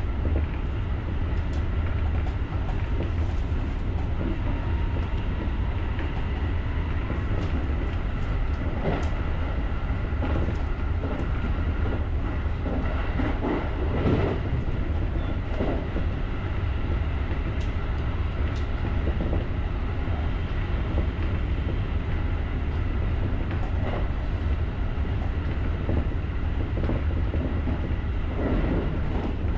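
JR rapid electric commuter train running along the line: a steady low rumble with a few faint steady tones over it, and a few sharper knocks scattered through, the loudest about fourteen seconds in.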